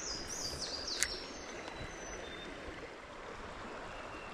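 Creek water running steadily, with a short high-pitched stepped sound in the first second and a sharp click about a second in.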